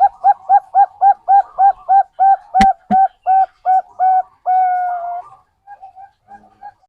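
Zebra dove (Bangkok perkutut) song: a fast run of short, evenly spaced coo notes, about four a second, ending in one longer held coo, then a few softer notes near the end. Two sharp clicks a third of a second apart come about two and a half seconds in.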